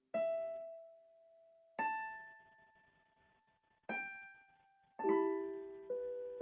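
Slow, sparse solo piano: single notes and soft chords struck five times, each left to ring and fade away before the next.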